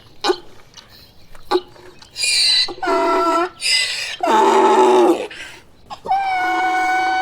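A donkey braying: high, wheezy in-breaths alternate with lower, drawn-out pitched notes from about two seconds in, then one long held note near the end. A few short, sharp calls come in the first two seconds.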